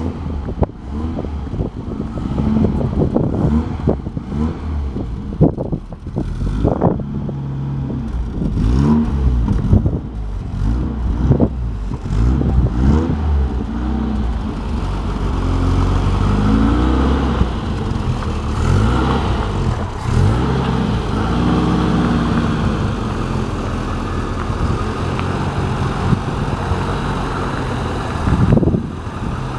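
Opel Ascona's engine running as the car is driven slowly around, its pitch rising and falling again and again as it revs up and eases off.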